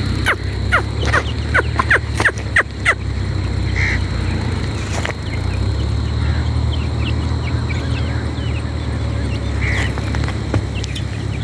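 Teetar (francolin) calling: a fast run of sharp, falling notes for about three seconds, then scattered softer calls, over a steady low hum.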